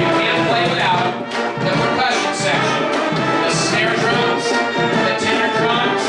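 High school band playing live, brass section (trumpets and trombones) carrying sustained chords and melody at a steady, loud level.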